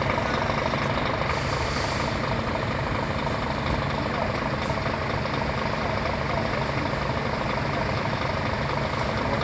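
Scania truck diesel engine running steadily, with a brief hiss of air about a second and a half in.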